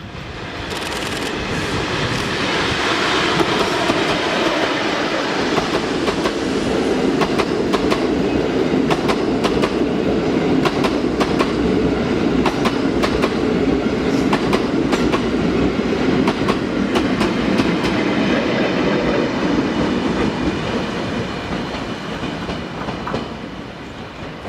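Train carrying new Tokyo Metro 13000-series subway cars passing close by, its wheels clacking over the rail joints in a long run of clicks. It swells over the first few seconds and fades near the end.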